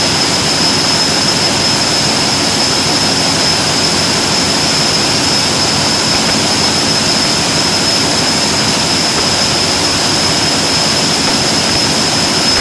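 Portable electric drill running steadily at constant speed: a loud, even whirring hiss with a thin high-pitched whine held throughout.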